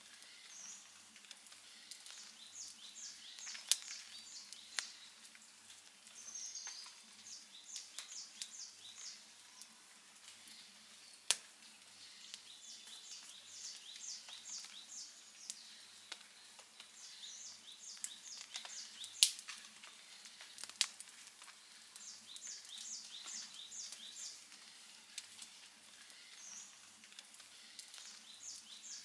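Wood campfire crackling gently, with sharp pops scattered through it, the loudest about two-thirds of the way in. Short runs of high chirps come and go behind the fire.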